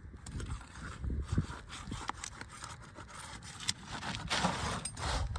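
Irregular scraping and rubbing with scattered sharp clicks as an old asphalt roof shingle is worked free of its last nail and pulled out, busiest near the end.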